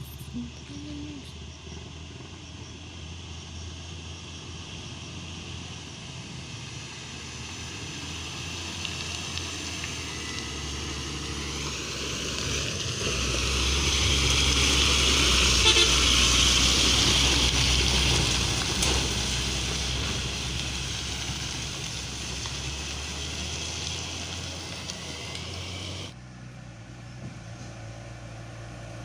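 Diesel truck engine labouring uphill under load. It grows louder as the truck draws near, is loudest about halfway through, then fades as it moves away.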